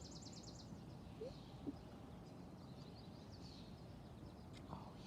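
Faint outdoor background with bird calls: a fast, high, buzzy trill that stops within the first second, then a few faint scattered chirps.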